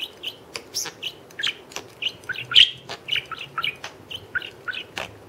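Small pet parrot beatboxing: a quick string of sharp clicks mixed with short chirps, several a second.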